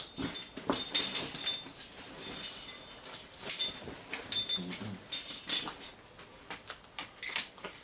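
Metal climbing hardware being handled and sorted: irregular clinks, some with a brief high ring, among rustling and handling noises.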